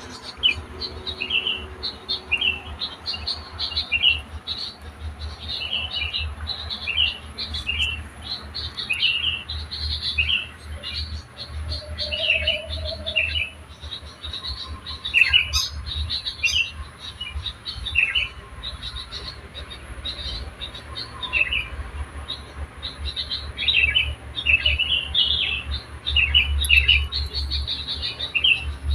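Wild songbirds chirping and singing almost without pause: quick, high, repeated notes, many of them sweeping down in pitch, over a steady low rumble.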